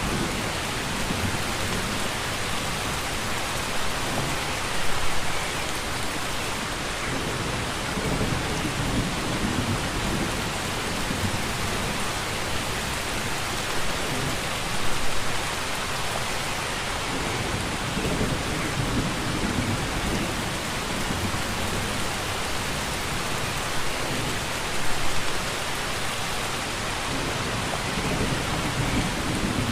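Steady rain falling, with brief louder swells about every ten seconds.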